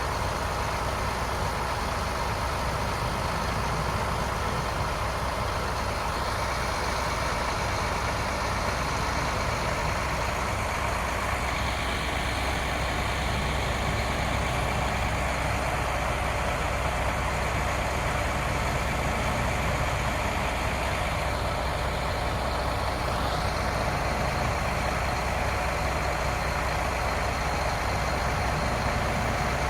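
Diesel engines of a truck-mounted concrete boom pump and a concrete mixer truck running steadily, an even truck-engine drone with no change in speed.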